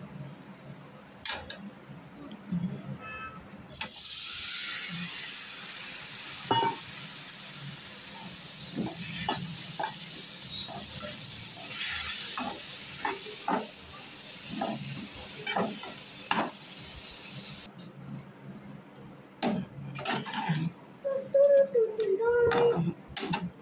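Eggplant slices sizzling in hot oil in a frying pan, with a spatula stirring and knocking against the pan. The sizzle starts about four seconds in and cuts off suddenly a few seconds before the end, after which louder scrapes and knocks of the spatula in the pan follow.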